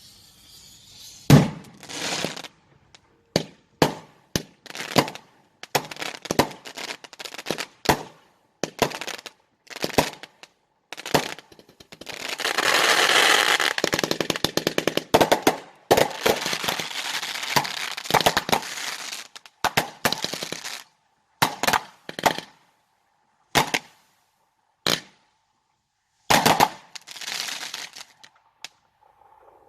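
Consumer fireworks going off: a string of sharp bangs at irregular spacing, with a dense run of rapid crackling shots for several seconds in the middle.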